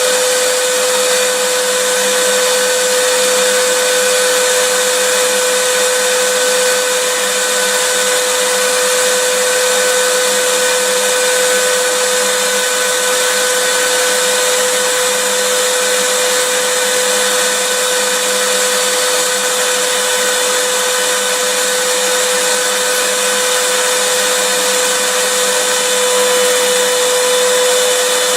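Vacuum cleaner running steadily, a loud even rushing hiss with a steady motor whine under it that does not change.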